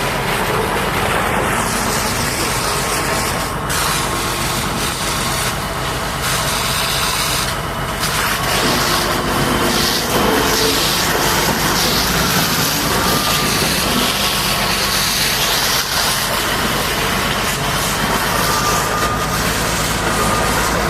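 Heavy diesel engine running steadily, with a hissing noise over it.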